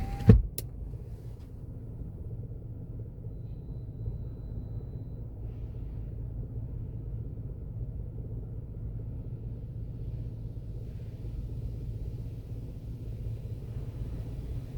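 A sharp thump just after the start, then a steady low rumble heard inside a car cabin while the car sits parked in an automatic car wash bay.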